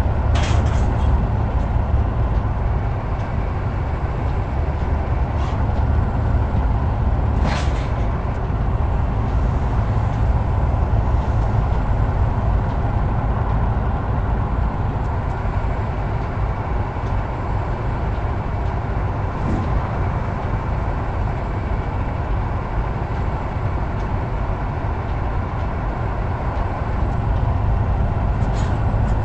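Heavy truck under way: steady low engine drone and road rumble, with a few short hisses.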